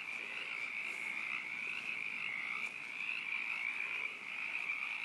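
Chorus of many frogs croaking together, a loud, dense, unbroken high-pitched drone that swells and dips slightly.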